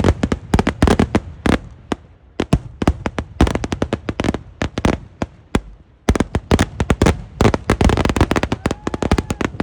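Eeduvedi barrage of Kerala temple-festival fireworks: loud explosions following one another in rapid succession. The bangs thin briefly around two seconds in and again around five seconds in, then come thick and fast from about six seconds in.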